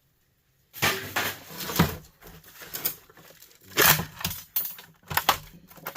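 Plastic housing parts of a small electric heater being pulled apart and handled, with irregular scraping and several sharp clattering knocks.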